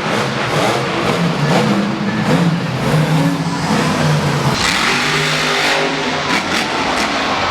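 Monster truck's supercharged V8 engine revving hard, the pitch climbing and falling again and again. From about four and a half seconds in the sound turns rougher and noisier, with a few sharp knocks.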